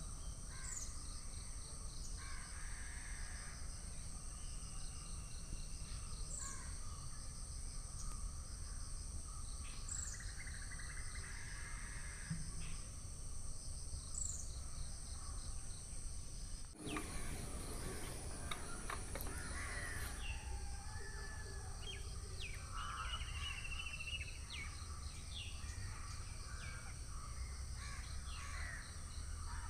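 Crows cawing and other birds calling, over steady background noise with a constant high-pitched whine. The background changes suddenly about halfway through.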